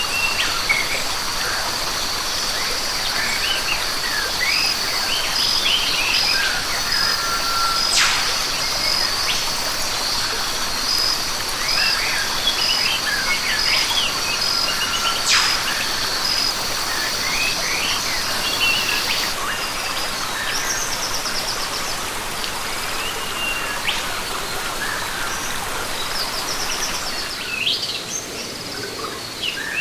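Rainforest ambience: many birds chirping and calling over a steady high insect drone and an even hiss. The insect drone stops about two-thirds of the way in, and two sharp clicks stand out, about 8 and 15 seconds in.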